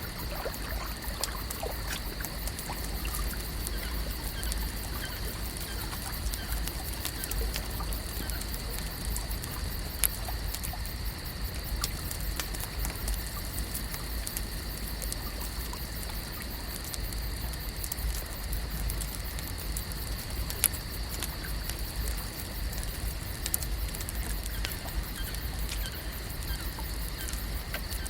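Lakeside ambience: water gently lapping and trickling, with many small ticks and a few sharper clicks, over a steady high-pitched tone and a low rumble.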